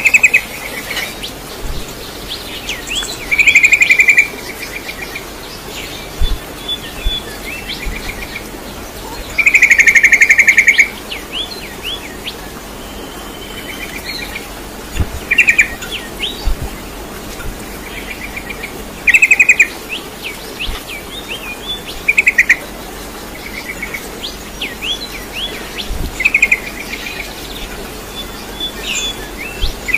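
A bird chirping and trilling over and over. Loud bursts of rapid trilled notes last about a second each, the longest about ten seconds in, with short falling chirps scattered between them.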